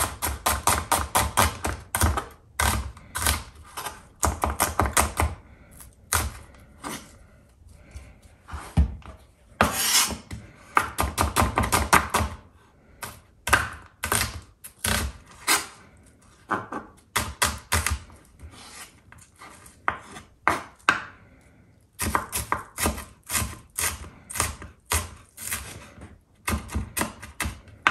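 Chef's knife chopping an onion on a wooden cutting board: runs of quick, sharp knocks of the blade against the board, several a second, broken by short pauses.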